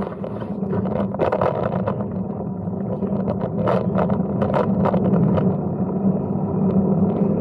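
Brompton folding bike being ridden along a path: steady rumble of tyres with wind on the microphone, building up over the first couple of seconds, and scattered rattles and clicks from the bike.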